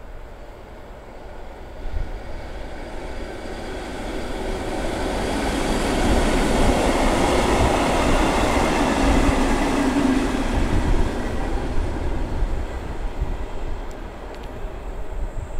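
Vintage electric locomotive hauling old passenger carriages passes by: the rumble of the train on the rails grows louder, is loudest in the middle as it goes past, then fades as it runs away.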